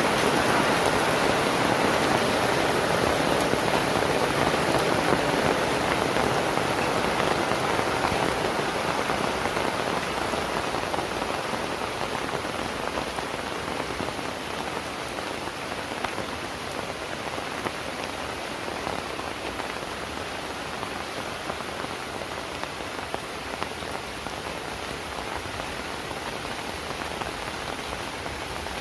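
Heavy rain falling steadily, an even hiss of drops that eases somewhat about ten seconds in and then holds steady.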